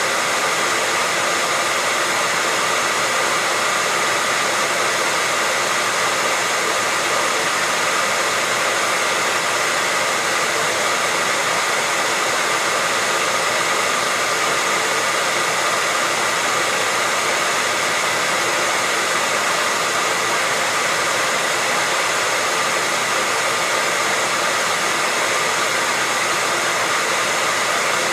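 Hair dryer running steadily at one setting, a constant rush of blown air with a faint steady motor whine under it.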